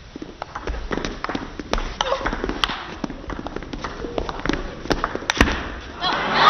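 Table tennis rally: a quick run of sharp clicks as the ball strikes rackets and the table, and crowd noise swells up near the end as the point is won.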